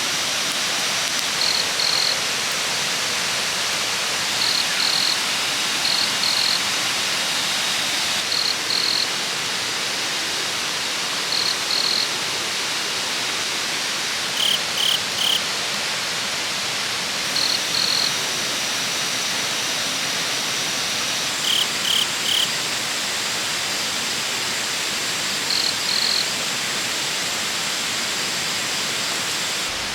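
Waterfall rushing steadily, with short high chirps in twos and threes every few seconds and a thin, steady high whine over it.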